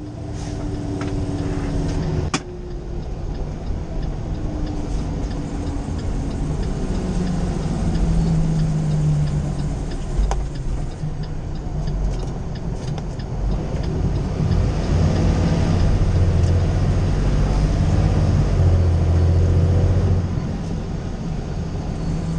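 2019 Pierce Saber fire engine's Cummins L9 diesel running under way. Its pitch shifts and it grows louder in the second half, with a sharp click about two seconds in.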